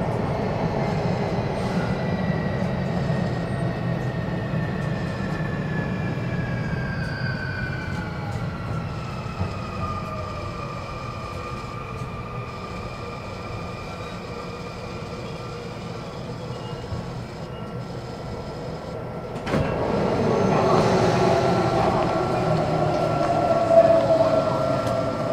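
Interior running sound of a Sotetsu Series 20000 electric train. Over the first ten seconds the inverter motor whine falls in pitch as the train slows under electric braking, and then it settles into a steady whine. About twenty seconds in the noise suddenly grows louder and fuller as the train enters the tunnel to the underground Yamato station.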